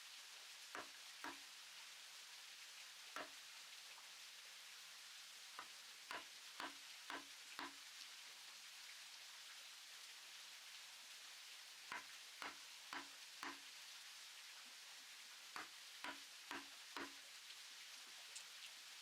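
Faint sharp knocks, each with a brief low ring. They come in runs of three or four about half a second apart, over a steady hiss.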